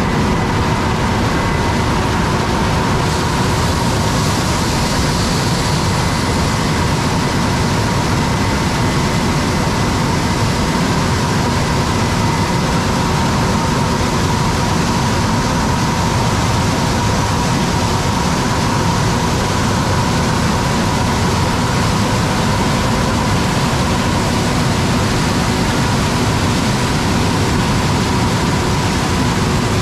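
Massey Ferguson 9690 combine harvesting corn: its engine and threshing machinery run steadily, with a constant whine over the rumble.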